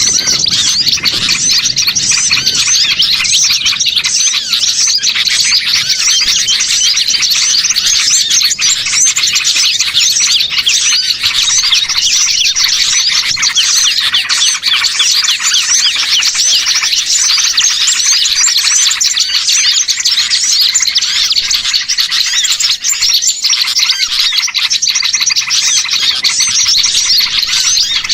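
Dense, continuous chorus of many small songbirds chirping and twittering over one another, with no break. It is a bird-lure recording of small birds meant to draw wild birds in.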